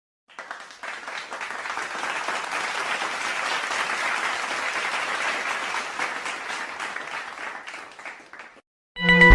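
Crowd applauding: a dense patter of many hands clapping that swells in, holds for several seconds and fades out. Just before the end a loud musical sound cuts in.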